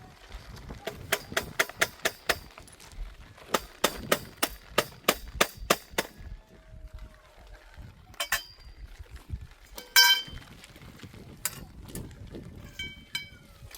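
Hammer blows on a metal tent stake being driven in: two quick runs of sharp, ringing strikes, about four a second. Then two single metallic clangs, the louder one about ten seconds in and ringing on briefly.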